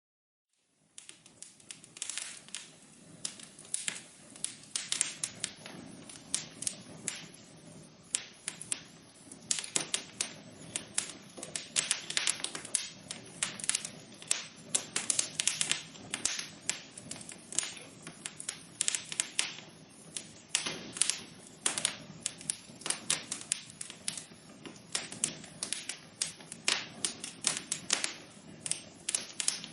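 Wood fire crackling in a fireplace: dense, irregular pops and snaps over a steady low hiss, starting about a second in.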